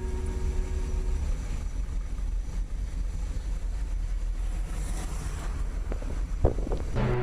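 Steady low rumble of outdoor background noise, like wind on the microphone, with a single sharp knock about six and a half seconds in. Music starts again at the very end.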